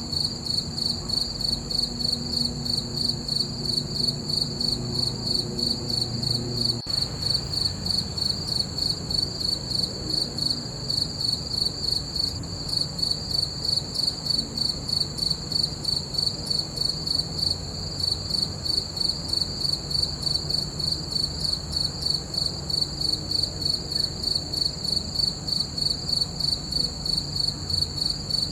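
Crickets chirping in a steady, even rhythm of fast, regular pulses, over a faint low hum.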